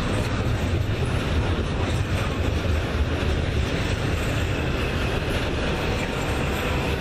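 Norfolk Southern double-stack intermodal freight train's well cars rolling past: a steady, heavy low noise of steel wheels on the rails.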